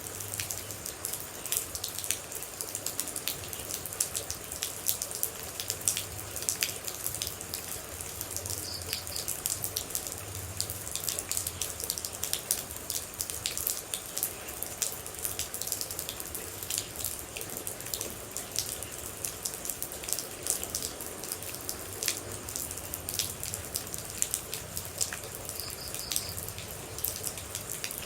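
Steady rain with many close water drops: a continuous hiss dotted with sharp individual drop hits.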